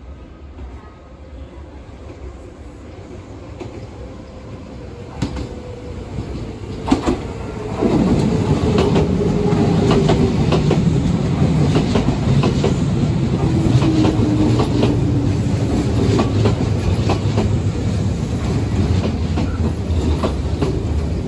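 Nankai Koya Line electric commuter train pulling into a station, growing louder as it approaches. From about eight seconds in, the cars run close by with a steady rumble and the clickety-clack of wheels over rail joints.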